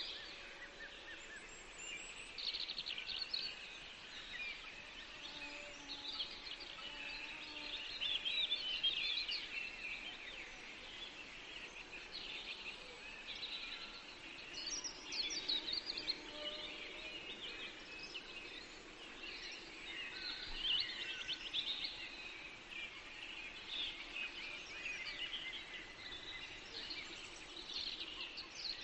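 Several songbirds singing at once, overlapping chirps and trills, with a faint steady background hiss.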